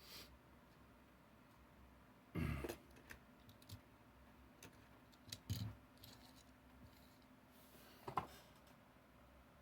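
Faint clicks and three short knocks of plastic and metal: die-cast toy trucks in their packaging being handled and shifted around.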